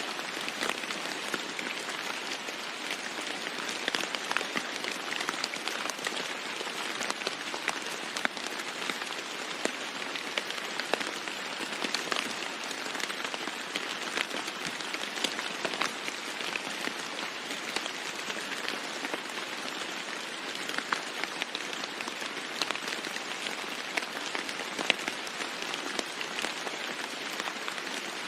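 Steady heavy rain falling on a roof, a constant hiss dotted with many sharp individual drop hits.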